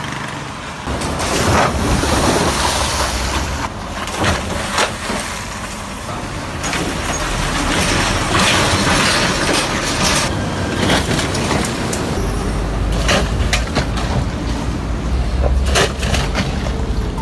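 Vehicle travelling on a rain-soaked, rough road: steady engine and tyre rumble with frequent short knocks and rattles.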